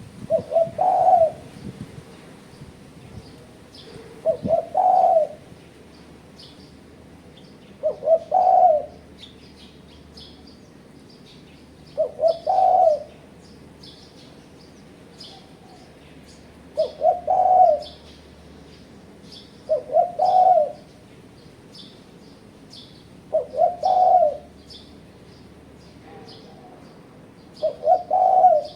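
Spotted dove (tekukur) cooing: a short phrase of two or three coos, repeated about every four seconds, eight times in all. This is the challenging call used as a lure to draw rival doves. Faint, high chirping goes on underneath.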